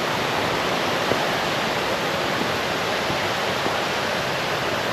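Waterfall and rushing river water, a steady, even roar of white water.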